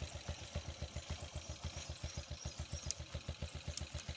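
An engine running steadily at low speed, with an even low thumping of about eight beats a second.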